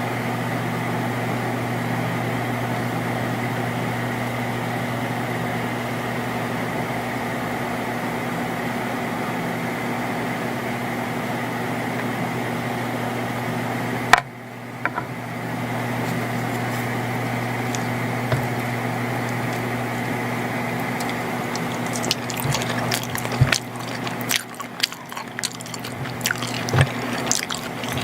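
A steady machine hum with a low mains-like drone, broken by a sharp click about halfway through, after which it dips and comes back. Near the end, a run of small clicks and taps joins it.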